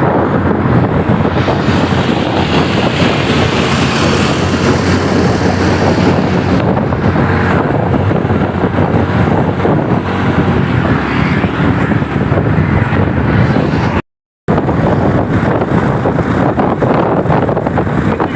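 Wind buffeting the microphone of a moving motorcycle, with the engine running steadily underneath. The sound cuts out completely for about half a second near the end.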